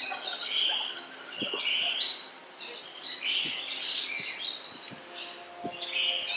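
Small birds chirping in short, irregular bursts every second or so, with a few faint soft ticks in between.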